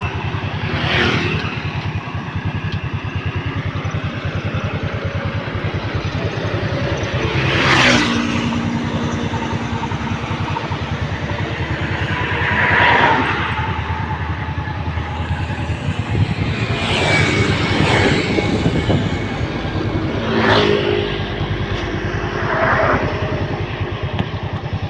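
Road traffic: a steady low engine rumble, with about six vehicles passing one after another. The loudest pass comes about eight seconds in.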